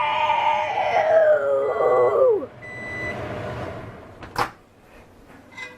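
A drawn-out excited "woo" shout, falling slowly in pitch for about two and a half seconds, followed by a short beep from the microwave and a single sharp click a little after four seconds in.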